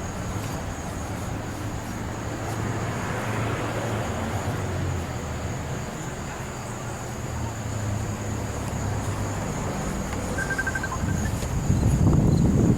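Roadside ambience: steady high insect chirring over a low idling-engine hum. About ten seconds in comes a short run of rapid high beeps, then a louder low rumble near the end.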